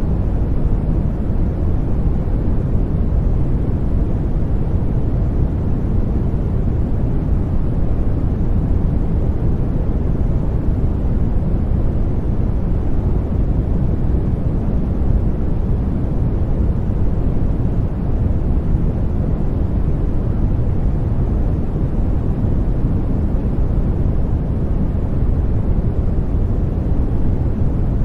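Steady, unbroken sleep-aid noise, a deep rumbling hiss with most of its weight in the bass, played continuously as a baby-calming sound.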